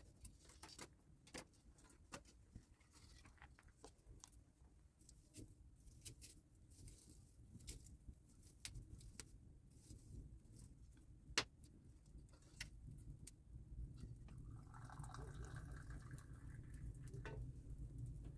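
Faint, irregular crackles and pops of a burning wood fire, with one sharper pop about eleven seconds in and a low rumble that grows stronger in the second half.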